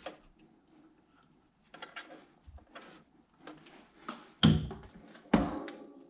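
Light clicks and knocks of things being handled, then two heavy thumps about a second apart near the end.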